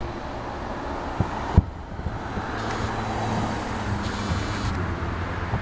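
Outdoor traffic rumble with a steady low engine-like hum, broken by two sharp thumps about a second and a half in, the second the louder.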